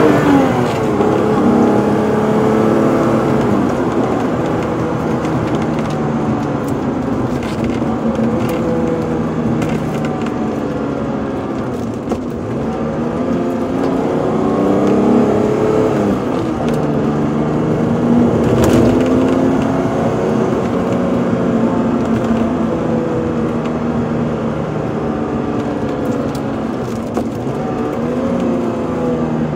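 BMW M635CSi's straight-six engine under way, heard from inside the cabin, its pitch rising as it pulls and dropping back at each gear change, several times over, with road noise underneath.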